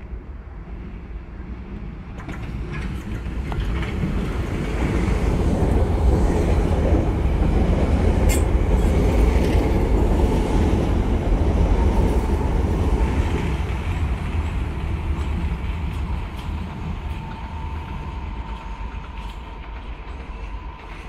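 London Underground train running past the platform: its rumble builds over a few seconds, holds, then fades, with a few sharp clicks of wheels over rail joints. Near the end a thin steady whine sets in as another train approaches.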